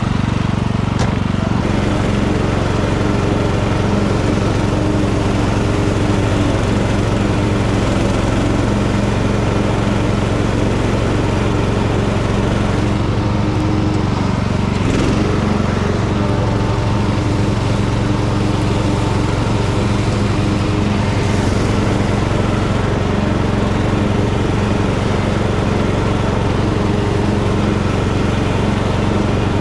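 Tractor engine running steadily while mowing overgrown grass, with the mower's cutting noise over a constant engine hum.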